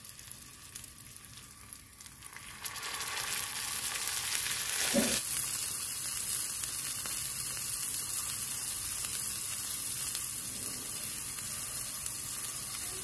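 A tiny steel pan of vegetable curry sizzling and simmering over a small live flame. The sizzle builds a couple of seconds in, then holds steady, with one brief soft bump about five seconds in.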